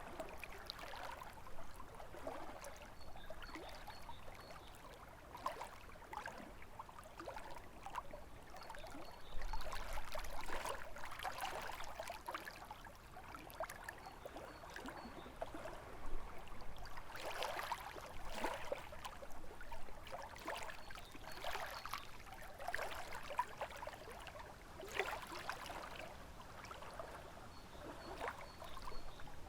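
Small lake waves lapping and splashing against the shore in an irregular patter, with a stronger surge of splashes about ten seconds in.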